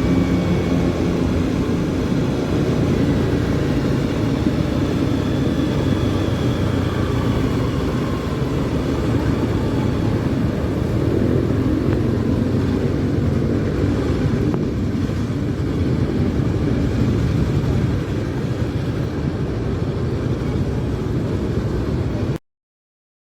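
Honda CBR250R's single-cylinder engine running under way, its pitch gliding up and down gently with the throttle. The sound cuts off suddenly near the end.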